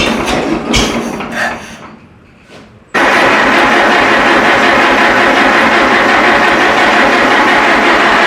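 Minneapolis Moline tractor engine turned over by its electric starter without firing. An earlier bout of cranking dies away, then about three seconds in a loud, fast, even chugging of cranking starts abruptly. The engine will not catch, which the owner puts down to a fuel problem.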